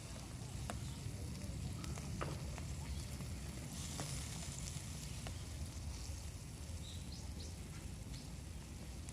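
Food sizzling steadily on a hot steel can used as a griddle over a small fire, with scattered faint crackles.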